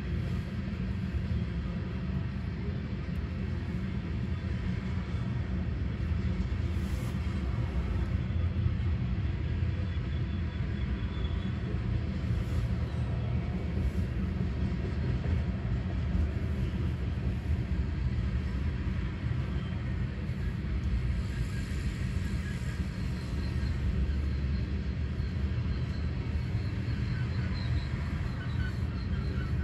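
Loaded ethanol tank cars of a freight train rolling past, a steady low rumble of wheels on rail, heard from inside a car.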